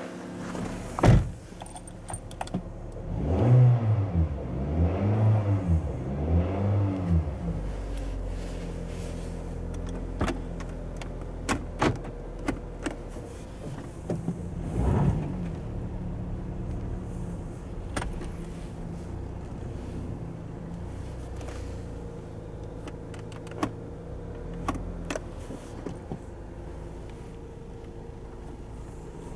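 A 2007 Pontiac Vibe's engine heard from inside the cabin. After a sharp click about a second in, its pitch rises and falls three times, then once more a little later. Otherwise it runs steadily at low speed, with scattered small clicks and rattles.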